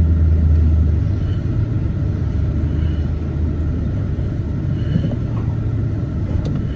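Tow vehicle's engine running with a steady low drone, easing slightly about a second in.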